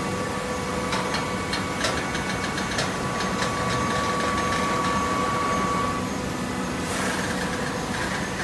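Hydraulic cardboard baler running: a steady motor-and-pump hum with a held whine and scattered clicks and rattles. The whine stops about six seconds in, and a short hiss follows.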